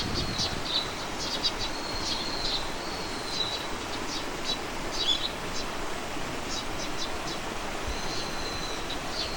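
Small birds calling and singing: scattered short high chirps, with a few drawn-out, slightly falling whistles about two seconds in and again near the end, over a steady outdoor hiss.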